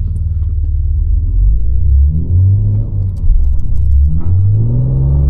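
BMW G80 M3 Competition's twin-turbo inline-six revving up twice, with a low rumble between, as the all-wheel-drive car struggles to pull out of deep snow and is getting stuck.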